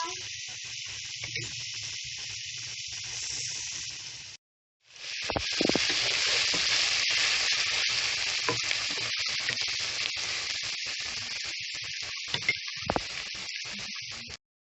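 Chopped onions and green chillies sizzling in hot oil as they are sautéed, with a few short knocks from stirring. The sizzle cuts out briefly about four and a half seconds in, then resumes.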